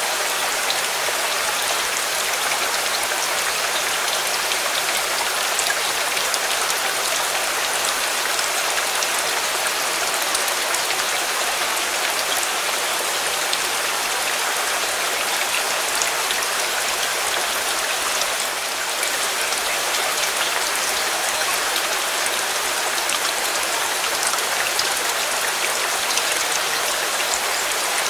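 Steady rain falling, an even hiss of drops with fine patter throughout.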